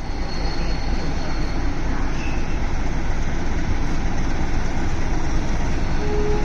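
Electroputere 060-DA diesel-electric locomotive running with its train of tank wagons: a steady, deep rumble of engine and rolling stock that grows a little louder over the first second, then holds.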